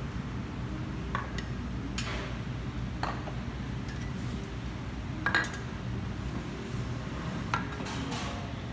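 Dishes and cutlery clinking now and then, about six light knocks spread out, the loudest about five seconds in, over a steady low hum.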